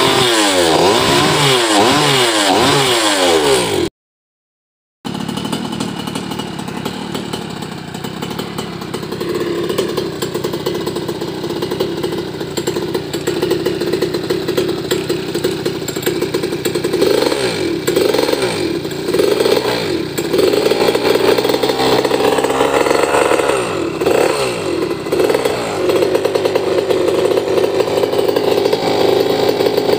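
Goped's tuned 63cc two-stroke engine (a bored-out 49cc earth-auger engine) with a racing expansion-chamber exhaust, revved hard in quick rising and falling blips. The sound cuts out briefly about four seconds in, then the engine runs steadily. In the second half it is blipped again several times in quick succession.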